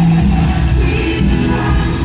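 Live band music from an outdoor concert, loud with a heavy bass line and sustained chords.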